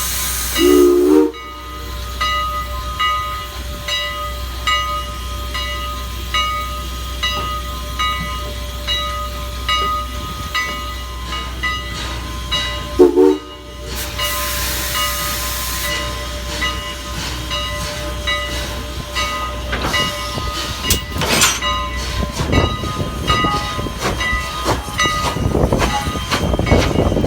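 Strasburg Rail Road No. 89, a 2-6-0 steam locomotive, giving two short whistle toots, about a second in and about thirteen seconds in, over steady hiss and a regular beat of working sounds. The noise grows rougher and louder over the last few seconds.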